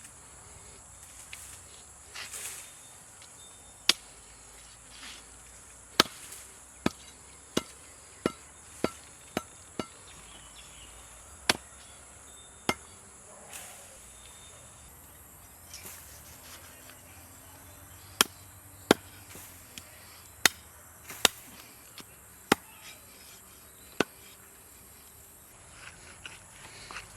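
A knife chopping through a parrot fish: sharp single strikes at uneven intervals. There is a quick run of about eight strikes from about six to ten seconds in, and a pause of several seconds after the middle before the strikes start again.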